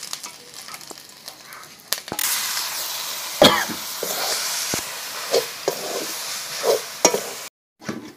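Food sizzling as it fries in a metal kadhai, the sizzle starting suddenly about two seconds in, with a few ringing clinks of a utensil against the pan. It cuts off abruptly near the end.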